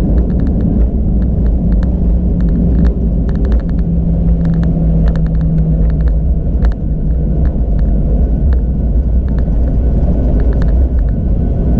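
Airliner cabin noise after touchdown: a steady low rumble of engines and wheels with a humming tone, and scattered light clicks and ticks throughout.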